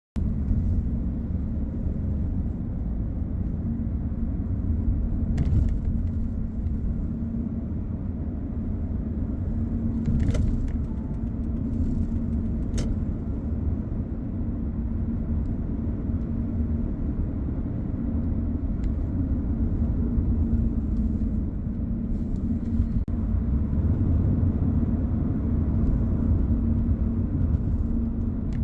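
A car driving along a road: a steady low rumble of tyres and engine with a constant hum, and a few faint ticks along the way.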